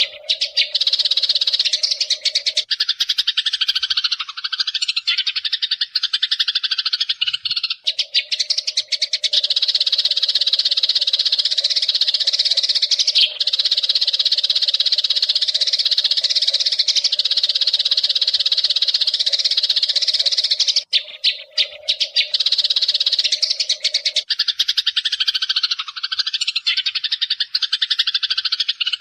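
A flock of Eurasian tree sparrows chirping and chattering in a continuous dense chorus. This is a sparrow masteran, a recording used to call in or train the birds. The chatter turns fuller and lower twice, a few seconds in and near the end.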